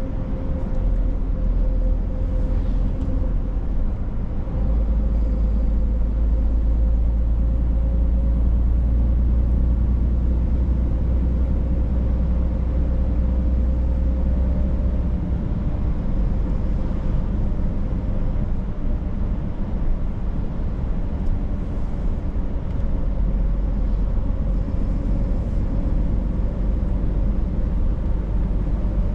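Scania truck on the move: steady engine drone and road noise, a deep rumble that swells from about five seconds in, eases after about fifteen seconds, and swells again near the end.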